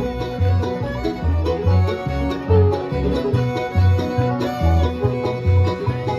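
Bluegrass band playing an instrumental break: plucked banjo and guitar over a bass line of about two notes a second, with some fiddle.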